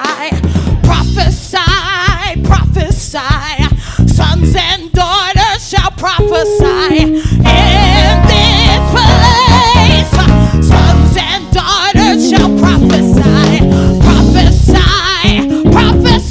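Live gospel praise band and singers: voices with vibrato over bass, drums and guitar.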